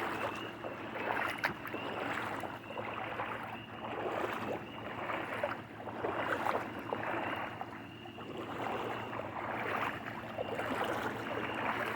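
Footsteps wading through ankle-to-shin-deep floodwater, a slosh and splash with each stride, swelling and fading about once a second.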